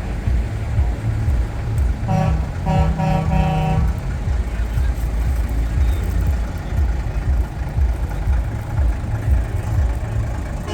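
Truck air horn giving about four short multi-tone blasts about two seconds in, over the steady low rumble of passing trucks' engines.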